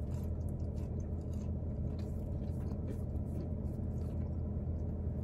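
Steady low hum of a car idling, heard inside the cabin.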